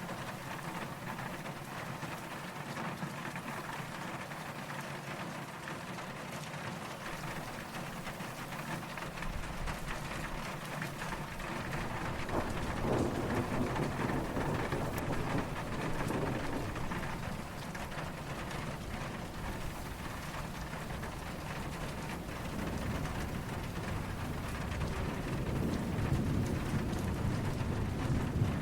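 Steady rain falling, with low, distant thunder rumbling in from about ten seconds in and swelling again near the end.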